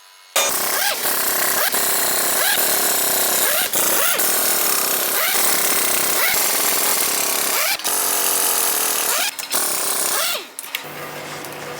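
Pneumatic impact wrench on a truck wheel, hammering loudly without a break and stopping about ten and a half seconds in.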